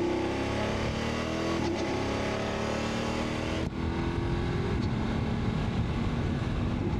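BMW F 850 GS Adventure's parallel-twin engine accelerating away, its pitch climbing through the gears with two upshifts about two and four seconds in, then running steady at cruising speed.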